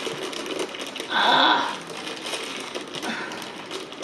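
Stiff plastic packaging crinkling and crackling as hands struggle to pull it open, with a louder rustle about a second in.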